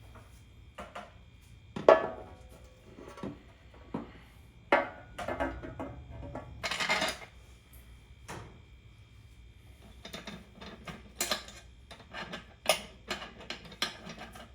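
Hand tools and metal engine parts clinking and knocking as they are handled during engine work, with a short rasping scrape about seven seconds in and a quicker run of light clicks near the end.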